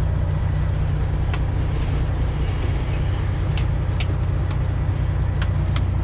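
Detroit Diesel 12.7-litre engine of a Freightliner Classic XL semi truck running steadily at low revs, a deep even hum, with a few faint sharp ticks over it.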